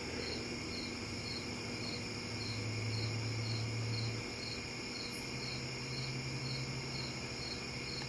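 Microwave oven running with a low hum that swells for a couple of seconds and then settles, while halved grapes boil inside. A faint, high, even chirp repeats a little under twice a second.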